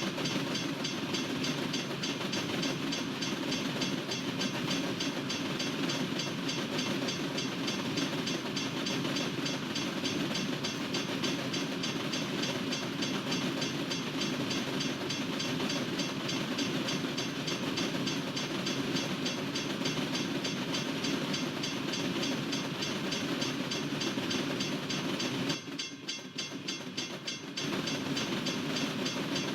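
Norfolk Southern freight train's cars rolling steadily past on the rails, with a continuous rumble and a fast, even clatter of wheels over rail joints. It drops briefly quieter for about two seconds near the end.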